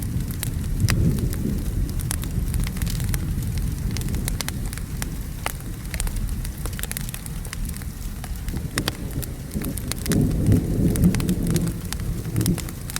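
Steady rain with a low rumble of thunder that swells about ten seconds in, mixed with the sharp crackles and pops of a wood fire.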